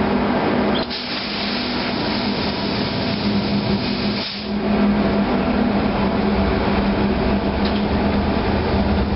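Steady drone of a ship's engine room, with a running diesel generator and pumps, and a constant low hum throughout. The noise dips briefly about a second in and again around four seconds in, then carries on.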